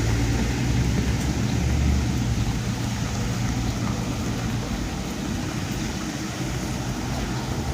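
A motor vehicle's engine running with a low, steady hum as it passes, loudest in the first two seconds and then easing, over a continuous hiss of rain.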